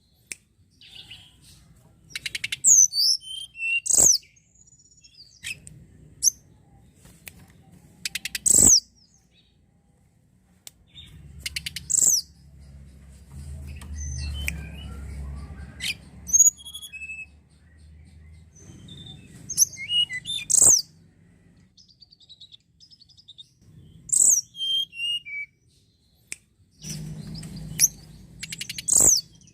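Tledekan gunung singing: loud, high, rapid song phrases of quick sweeping notes, repeated every few seconds with short pauses between. A faint low rumble lies underneath, strongest around the middle.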